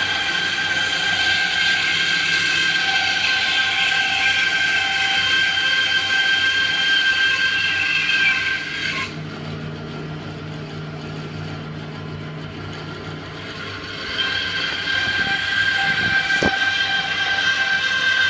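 Bandsaw running with a steady whine while its blade cuts through a thick block of wood. About nine seconds in the cut stops and the saw runs on more quietly, then cutting starts again at about fourteen seconds, with a single knock shortly after.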